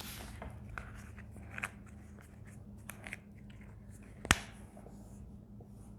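Faint scratching and small clicks of writing or drawing a diagram, with one sharp click about four seconds in, over a faint steady hum.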